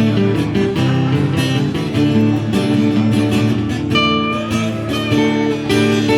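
Guitar music: strummed and plucked acoustic guitar playing steadily, with no singing.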